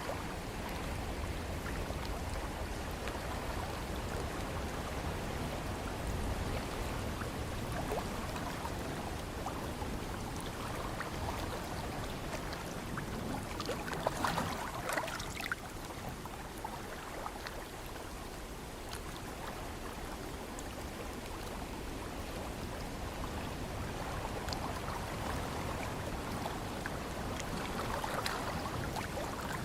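Ocean waves washing and lapping, a steady rush of water with a louder splash about halfway through and another near the end.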